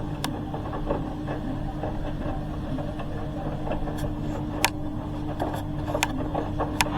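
Hoover H-Wash 300 Plus washing machine draining: the drain pump hums steadily, with a few sharp clicks scattered through it.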